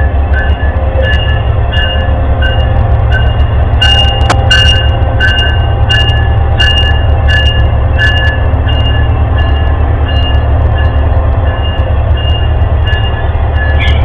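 Train passing with a loud, steady low rumble while a railroad crossing bell rings at about one and a half strokes a second. A few sharp clicks sound about a third of the way in.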